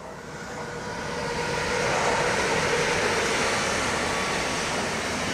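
Freight train hauled by a TX Logistik Siemens Vectron electric locomotive passing close by on the rails. The noise builds over about the first two seconds as it approaches, then holds steady as the locomotive and wagons go past.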